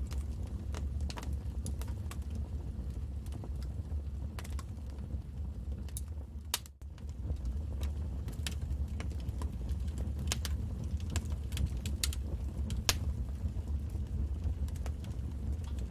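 Wood fire in a fireplace crackling: sharp irregular pops and snaps over a steady low rumble of the burning fire. The sound dips briefly just before halfway through, then carries on.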